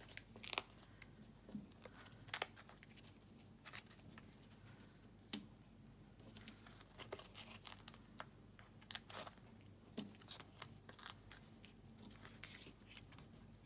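Foam adhesive dimensionals being peeled off their backing sheet and pressed onto the back of a paper card piece: faint, scattered peeling clicks and crinkles at irregular intervals.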